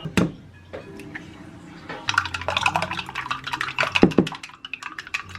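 Kitchen utensils clicking and tapping: a single click just after the start, then from about two seconds in a quick, irregular run of small taps and clatter.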